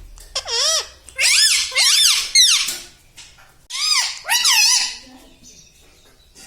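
A pet animal's high, wavering cries in three loud bouts, the pitch swooping up and down within each call.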